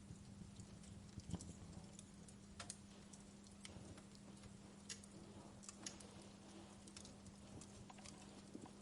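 Wood fire crackling: faint, irregular pops and snaps, several a second, over a steady low hum.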